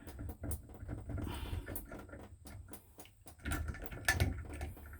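Scattered clicks, knocks and light scrapes of parts being handled and worked at on a Delta shower valve as a tight-fitting piece is pulled off, with a busier cluster near the end.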